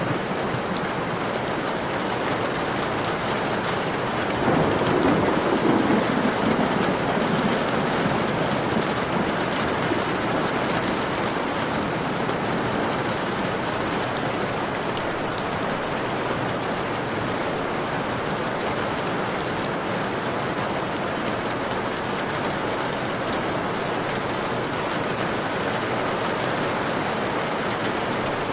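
Steady rain pattering against a window pane. About four to seven seconds in, a low swell rises over the rain and fades.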